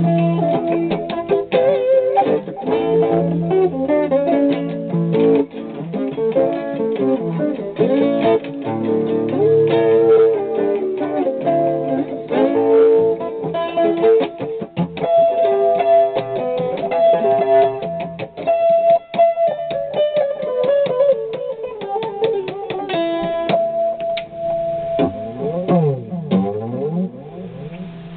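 Guitar being picked solo, a run of plucked single notes and chords with no singing. Near the end some notes glide up and down, then the playing dies down.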